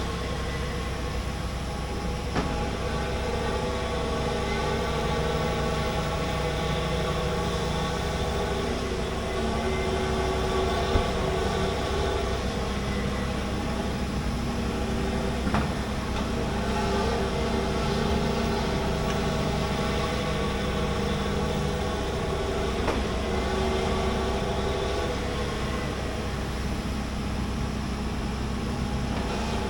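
Large hydraulic excavator's diesel engine running steadily while digging, with a few short sharp knocks scattered through.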